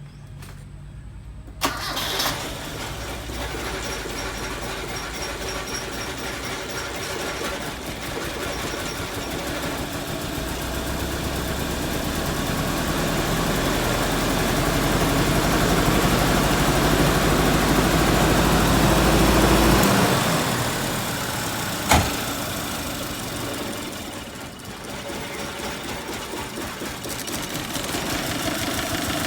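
Car gasoline engine starting about two seconds in and running, its revs and level rising for a while and then dropping back to a steady idle, with a sharp click partway through. It is the engine that had cranked without starting, now running after water was found in the gasoline and a clogged injector was dealt with.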